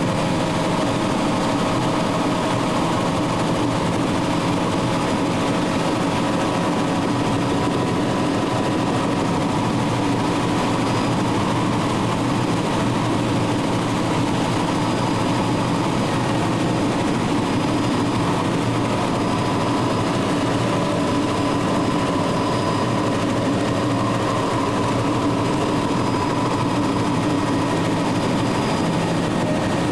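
Helicopter engine and rotor noise: a steady, unchanging drone with constant whining tones throughout.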